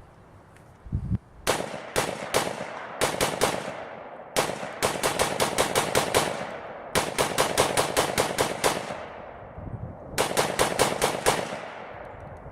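Short-barrelled 300 AAC Blackout AR-15 firing 110-grain rounds: three single shots, then rapid strings at about five or six shots a second, each shot trailing off in an echo. A low thump sounds about a second in, before the first shot.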